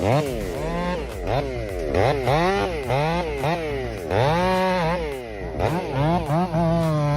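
Stihl MS500i fuel-injected two-stroke chainsaw revving up and down over and over, its pitch rising and falling about once a second, with quicker, shorter blips near the end.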